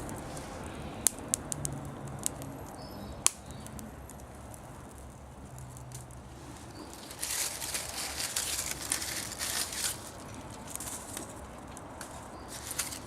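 Bonfire of dry fallen leaves crackling: a few sharp pops in the first few seconds, then a denser spell of crackling from about seven to ten seconds in.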